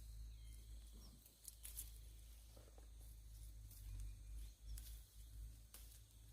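Near-silent outdoor ambience: a steady low rumble with a few faint, scattered clicks.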